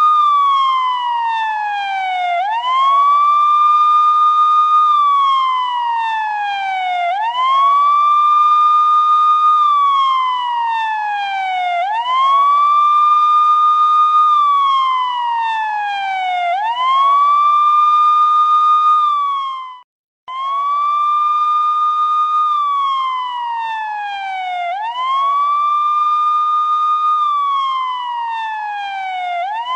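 Police siren on the wail setting: one tone that rises quickly, holds, then falls slowly, repeating about every four and a half seconds. It cuts out for a split second about two-thirds of the way through, then starts again.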